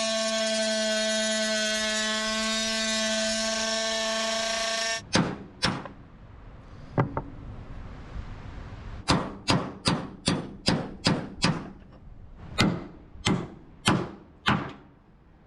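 A power tool runs with a steady, high-pitched whine for about five seconds and then stops. It is followed by a string of sharp metallic knocks, about fifteen of them, irregularly spaced, most packed into the last six seconds: work to cut and knock free a seized aluminium mast base.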